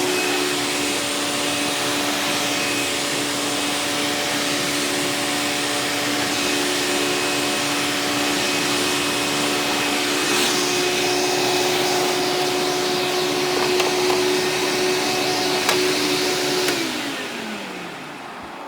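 Hoover Power Drive Supreme direct-air upright vacuum running in hose tool mode: a steady motor whine over a rush of air. Near the end it is switched off and the motor winds down, its pitch falling.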